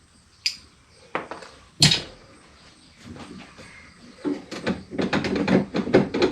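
Sharp knocks of a power window regulator assembly being worked into a pickup's door, metal against the door's inner panel, the loudest a little under two seconds in, then a quick run of clicking and rattling over the last two seconds.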